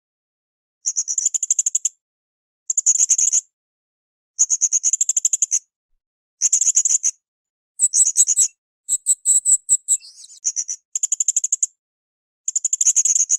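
Blue-crowned hanging parrot (srindit) calling in repeated bursts of rapid, shrill, high-pitched trilled chirps, each about a second long with short pauses between. About nine seconds in, one burst is a steadier run of clearer notes.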